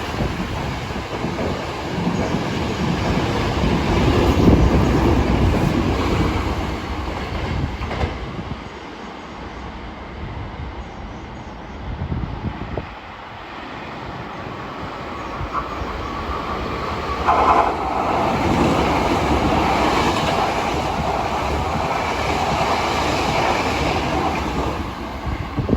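Two Hankyu 9300 series electric trains passing through a station one after the other, the first loud for about the first eight seconds and the second building up again from about halfway.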